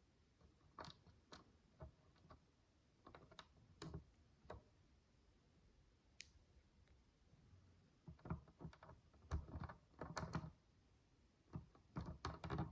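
Small plastic micro building bricks clicking as they are handled and fitted together. The clicks come singly at first, then in denser runs about two-thirds of the way through and again near the end.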